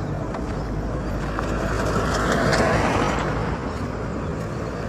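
Road traffic: a motor vehicle passes close by, its noise building to a peak about two and a half seconds in and then fading, over a steady low traffic rumble.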